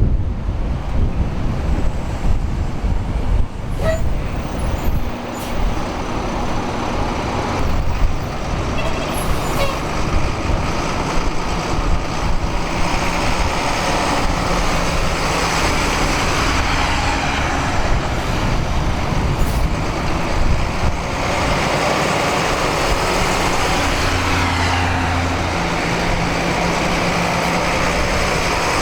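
Steady motor vehicle engine and road noise, like a truck or car driving, with a low engine hum under a broad rumble.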